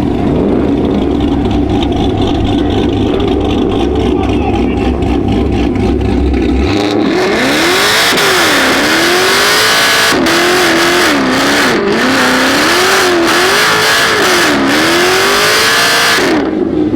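V8 muscle car engine, loud and low at first. From about seven seconds in it revs hard, its pitch swinging up and down over and over above a loud steady hiss, as in a burnout or donuts. It cuts off shortly before the end.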